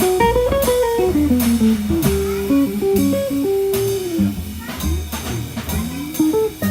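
Live jazz quartet playing a blues-tinged instrumental passage: a lead line with sliding, bent notes over bass and drums with cymbals.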